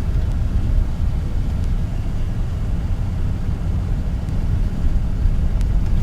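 Steady low rumble inside a car driving slowly in a blizzard: road noise and the buffeting of strong wind against the car.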